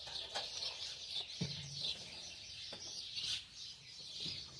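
Many small birds chirping and chattering together in a dense, continuous chorus, with a few light knocks mixed in.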